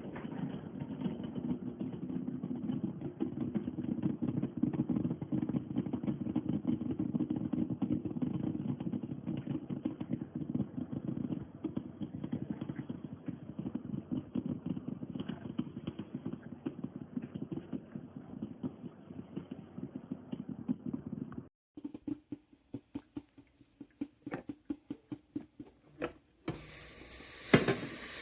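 Water pouring and splattering steadily as it leaks out of a Black+Decker Mill and Brew drip coffee maker fresh out of the box, with the carafe not under the outlet. It cuts off about three quarters of the way in; scattered clicks follow, and then a steady hiss starts near the end.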